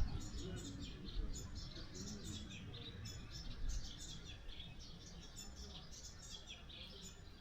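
A chorus of small birds chirping and twittering in quick, overlapping calls, over a low rumble.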